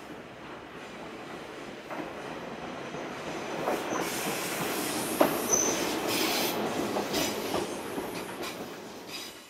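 Toyama Chihō Railway 10030 series electric train arriving at the platform, its running noise growing louder as it comes close. The wheels knock sharply over rail joints several times, with a brief high wheel squeal about halfway through.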